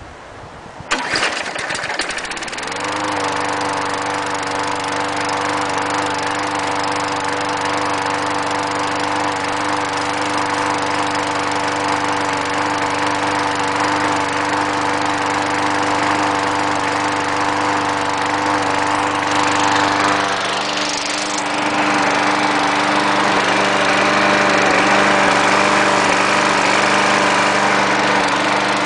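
A small engine starts about a second in, picks up speed and settles into a steady run. About twenty seconds in its note changes, with a short hiss, and it runs on a little louder.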